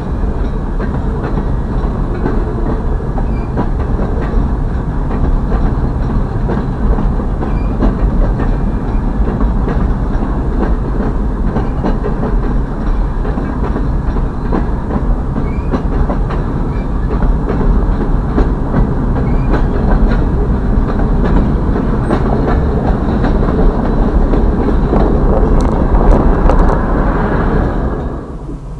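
Freight train boxcars rolling past a grade crossing, heard from inside a car: a steady rumble with a clickety-clack of wheels over the rail joints. The sound drops away sharply near the end.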